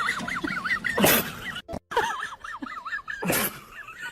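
Two short sneezes, a little over two seconds apart, over a continuous high warbling chirping.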